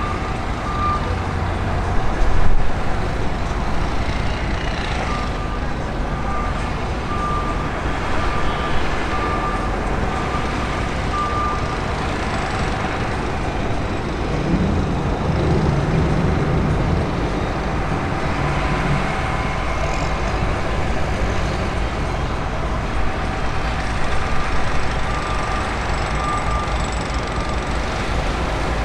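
Steady aircraft engine noise with a low rumble swelling near the middle. A short high beep repeats at intervals through the first twelve seconds and again near the end.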